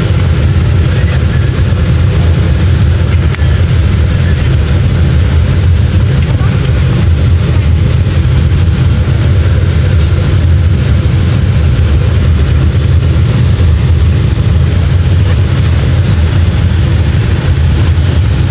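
Cabin noise inside a Boeing 737-500 airliner: a steady, loud low rumble from its CFM56 jet engines and airflow, with an even rushing hiss over it.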